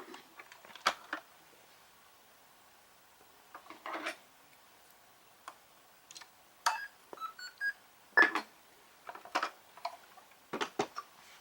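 Scattered clicks and light knocks at irregular moments, with a short run of faint beeps about seven seconds in.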